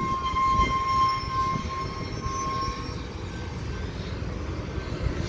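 BNSF freight train rolling past with a low rumble of its cars. A steady high-pitched tone sounds over it for the first three seconds, then fades.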